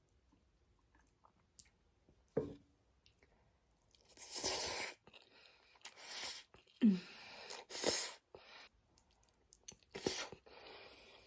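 Close-miked eating of spaghetti: a few short, noisy slurps and wet mouth sounds, each under a second, starting about four seconds in.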